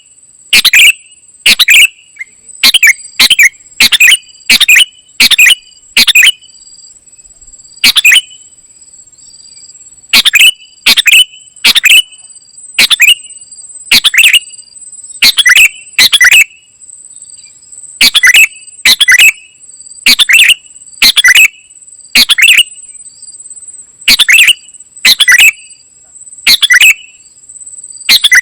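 Kutilang emas, a bulbul, calling in short, sharp, very loud notes about once a second, falling silent for a few seconds a quarter of the way in. A steady high-pitched insect-like buzz runs underneath.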